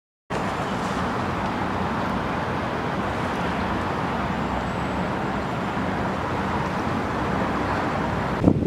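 Tugboat engine running steadily under a broad wash of noise, with a sudden knock near the end.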